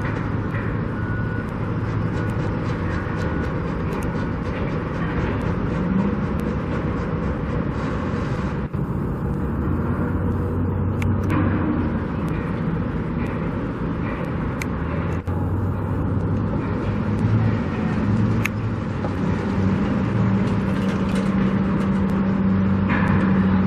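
Steady engine rumble of motor vehicles or heavy machinery, with a constant low hum and a few faint clicks.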